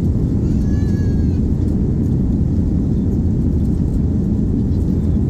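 Steady low rumble in the cabin of a Boeing 787-9 rolling on the ground after landing, heard from a window seat.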